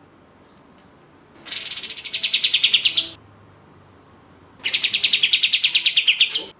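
Kapas tembak (katem) songbird giving two rapid-fire trills of about a dozen notes a second, each lasting under two seconds, opening high and dropping to a lower, steadier pitch.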